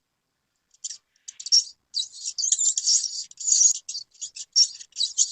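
Small bird chirping and twittering rapidly in high-pitched bursts, starting after about a second of silence.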